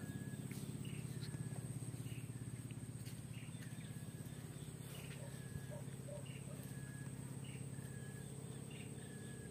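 A bird repeating a short high call about once a second over a steady low hum.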